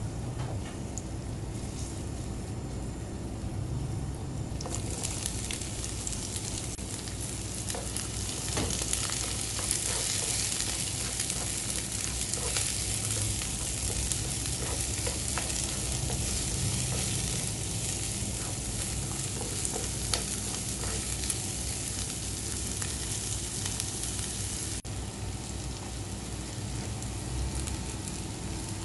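Sliced shallots, garlic and chillies frying in hot oil in a nonstick wok, with a steady sizzle and a spatula scraping and stirring. The sizzle grows much louder about five seconds in and eases slightly near the end.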